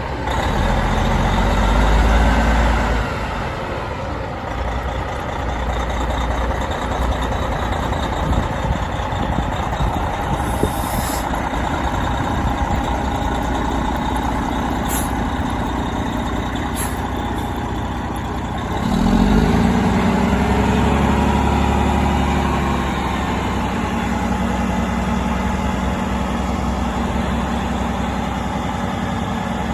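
Heavy diesel engine of a 2011 Western Star 6900XD dump truck running continuously. About 19 seconds in, it gets louder and settles into a steadier pitched note.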